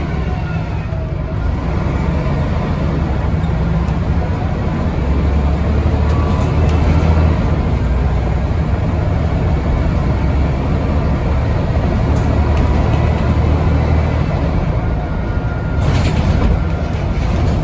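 Scania N94UD double-decker bus with a ZF automatic gearbox heard from inside the saloon, its engine running steadily under way with a low drone. The drone swells for a few seconds about five seconds in, and there are a few brief rattles of the bodywork.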